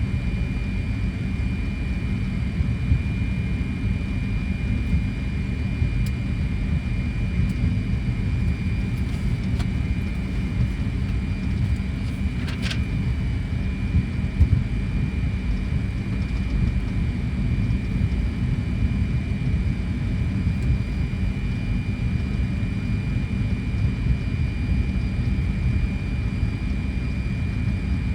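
Cockpit noise of a Fokker 100 taxiing after landing: a steady low rumble from its engines and airflow, with a thin, steady high whine running through it. A single brief click sounds about twelve seconds in.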